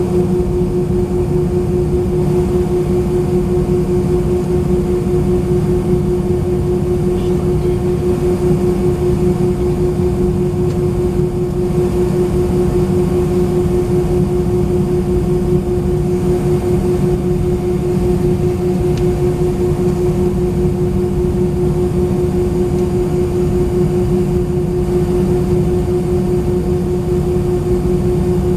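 Airbus A319 cabin noise heard from a rear window seat: its IAE V2500 turbofan engines running at a steady setting, with an even rumble and hiss under a constant hum.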